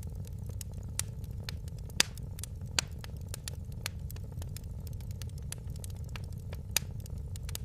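Fire in a fireplace crackling: frequent sharp pops and snaps over a steady low rumble of the flames, with louder pops about two seconds in, just before three seconds, and near the end.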